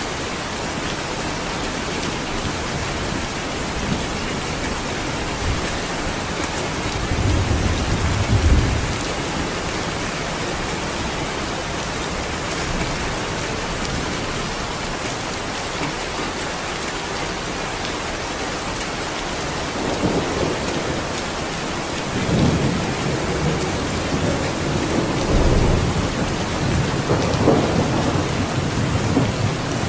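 Steady heavy rain falling, with low rolls of thunder rumbling about eight seconds in and again several times through the second half.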